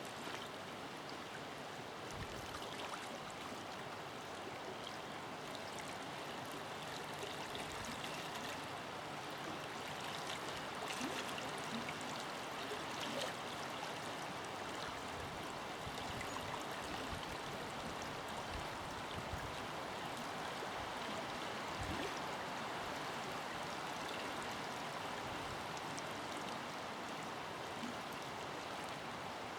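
Forest river flowing over rocks: a steady rushing with small splashes and gurgles.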